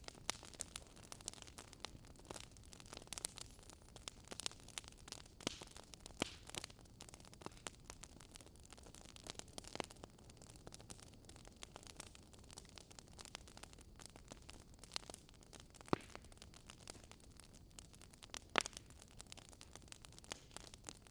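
Wood fire crackling: irregular sharp pops and snaps over a faint steady hiss, with two louder pops near the end.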